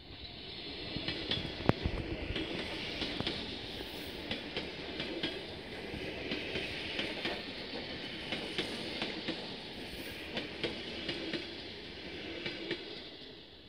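ER2T electric multiple unit passing close by: the rumble of wheels on the rails with a clickety-clack of many sharp clicks as the wheels cross rail joints, the loudest a sharp knock about two seconds in. It swells at the start and fades near the end as the last cars go by.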